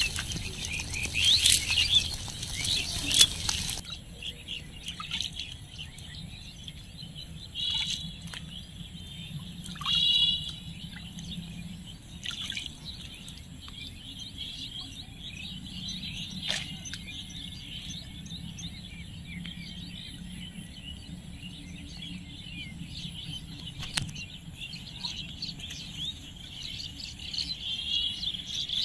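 Birds chirping and calling, with a louder scratchy rustle in the first few seconds that stops abruptly.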